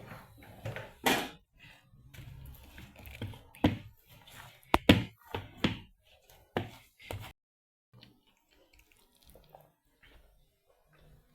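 A series of sharp knocks and thuds, irregularly spaced, for about seven seconds, then cutting off suddenly to faint scattered ticks.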